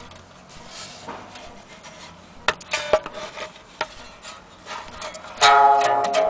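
An old Italian mandolin being handled, with rubbing and a few sharp knocks on its wooden body. About five seconds in, its strings are strummed and ring out loudly.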